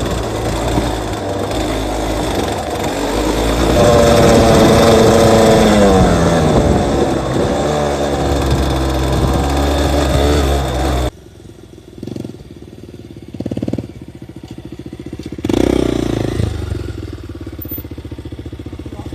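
Yamaha DT200WR two-stroke single-cylinder dirt bike engine being ridden under load with rushing noise over it, its pitch rising and falling as the throttle and gears change. About eleven seconds in, the sound cuts off abruptly to a quieter, low-speed running with a few short throttle blips.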